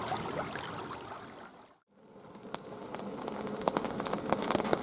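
Water from a swollen woodland creek runs and fades out to silence about two seconds in. The sound then fades back in as steady rain with many sharp drip clicks, growing louder.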